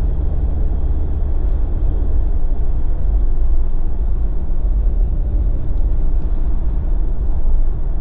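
Steady low road rumble of a Jeep driving on a snow-covered road: tyre and engine noise heard from inside the cabin.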